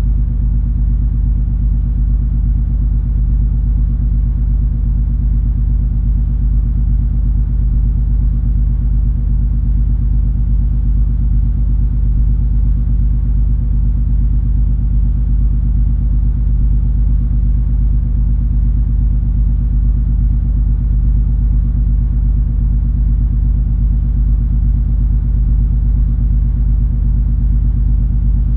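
Steady low rumble and drone of the cruise ferry MS Color Fantasy under way, its engines and hull giving a constant deep hum with a few steady low tones and no change in level.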